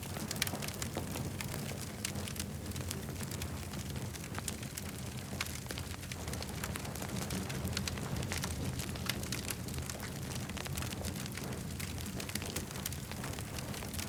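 Campfire burning: a steady low rumble of flame with frequent irregular crackles and pops from the burning wood.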